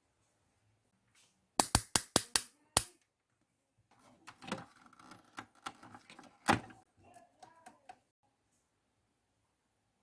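A toy washing machine being handled during a repair: a quick run of about six sharp clicks, then a few seconds of irregular clattering with one louder click.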